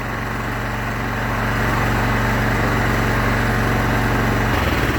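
New DuroMax 18 hp single-cylinder four-stroke gas engine running steadily on its first run. A little before the end its steady note breaks up and the sound begins to die away, as if the engine is shut off and winding down.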